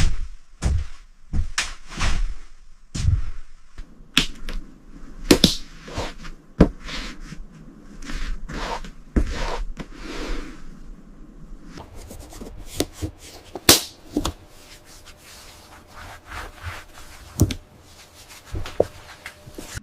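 An irregular series of sharp knocks, taps and scrapes, closely packed at first and thinning out after the first half.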